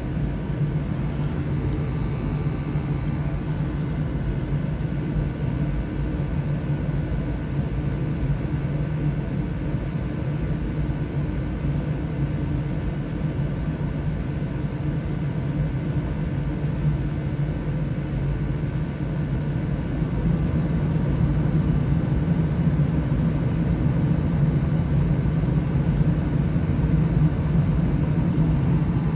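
A 20-year-old Bryant gas furnace running on a call for heat, a steady low hum and rumble that grows a little louder about two-thirds of the way through.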